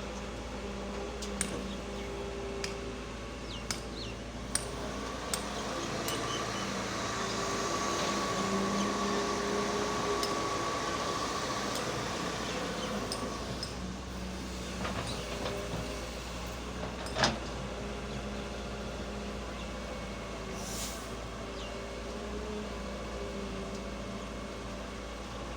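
Excavator engine running steadily, getting louder for several seconds with a steady whine over it, then easing back. There are scattered light clicks and clanks, and one sharp knock about 17 seconds in.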